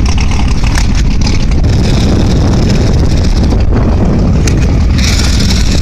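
Loud, steady rumble of car engines, with wind on the microphone and a burst of hiss near the end.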